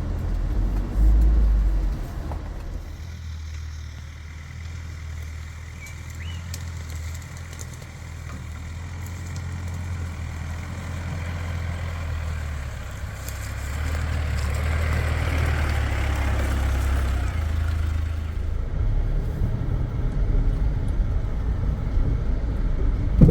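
Mitsubishi Pajero four-wheel drive crawling in low range over a difficult stretch of rough forest track: a steady low engine drone, with a heavy bump about a second in and a rushing noise that swells and fades around the middle.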